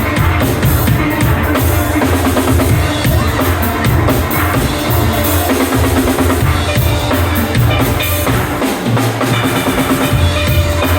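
Steel band playing: steel pans over a drum kit with a steady bass drum beat.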